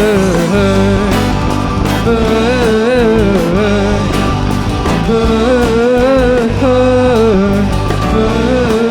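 Live rock band of drums, bass, guitars and keyboard playing a song's instrumental opening. A wavering, sliding lead melody sits over steady bass and drums.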